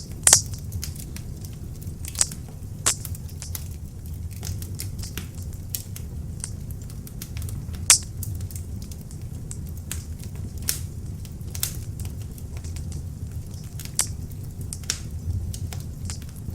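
Beech-wood log fire in an open fireplace burning with a steady low rumble of flame and irregular sharp crackles and pops, the loudest pops about a quarter second in and near the eight-second mark.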